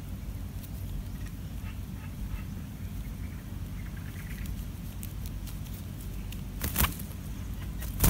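An adult streak-eared bulbul moving at its nest: faint high chirps in the first half, then a sharp rustle near the end, over a steady low rumble.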